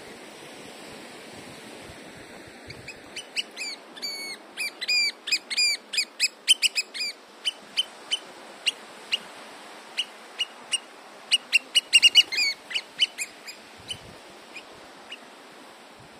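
A bird calling in a long run of short, sharp, repeated notes, two or three a second, some bending in pitch. The calls begin about three seconds in, grow loudest about twelve seconds in and thin out near the end, over a steady background rush.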